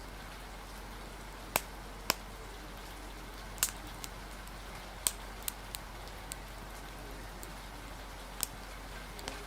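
Rain-and-fire ambience: a steady hiss of rain with sharp, irregular crackles or drips, about eight in all, scattered through it.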